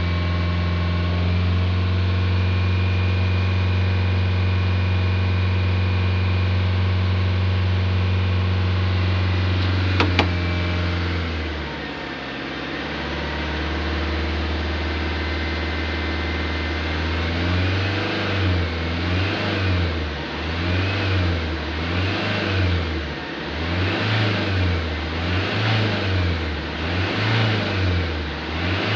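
Iveco Daily van's diesel engine idling steadily, with a brief click about a third of the way in. Past the halfway point it is blipped up and down over and over, roughly once a second.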